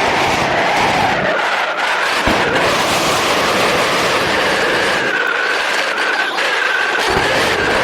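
Motorcycle on the move: engine running steadily under loud, even road and wind noise, with a faint wavering whine.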